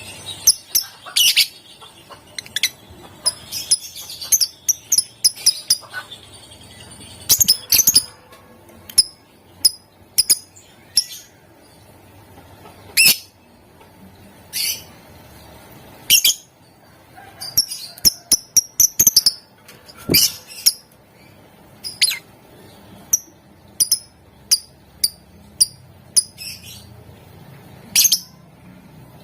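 Lovebird calling: short, sharp, high-pitched chirps and squeaks at irregular intervals, some coming in quick clattering runs.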